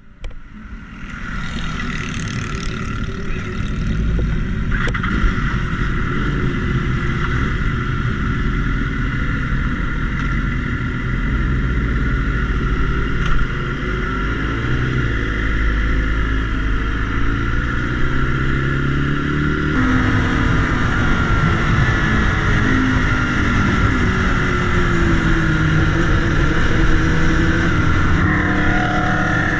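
BMW S1000RR inline-four sport-bike engine heard on board while riding, its pitch rising and falling with the throttle through the bends. The sound changes abruptly about two-thirds of the way through.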